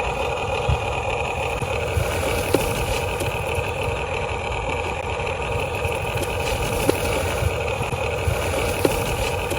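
Huina 1580 RC excavator's small electric motors whirring steadily, with a few light clicks.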